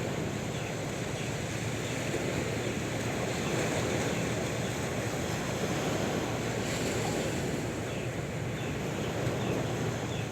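Sea waves washing onto shore: a continuous rush of surf that swells gently a couple of times.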